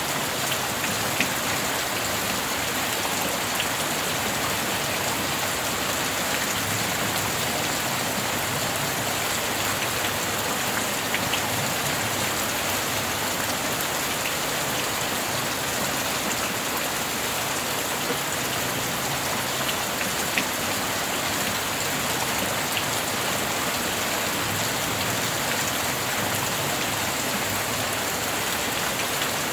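Steady rain falling, an even hiss with a few single drop ticks standing out here and there.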